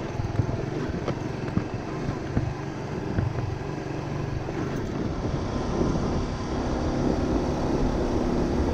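Honda Winner 150's single-cylinder engine running under way, with scattered knocks and rattles in the first few seconds. From about halfway the engine note rises and grows louder as it pulls harder.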